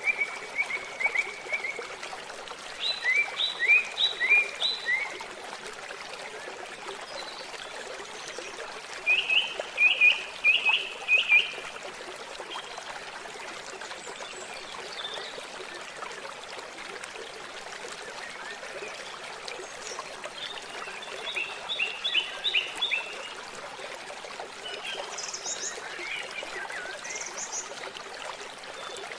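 Water trickling and flowing steadily, with a bird singing short phrases of quick, repeated chirps several times over it, a few higher-pitched calls near the end.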